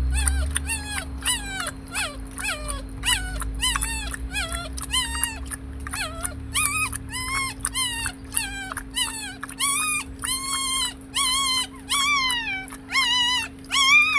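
Puppies whining and whimpering in a long run of high-pitched cries. The first cries are short and falling, about three a second. From about halfway on the cries are longer, wavering and louder.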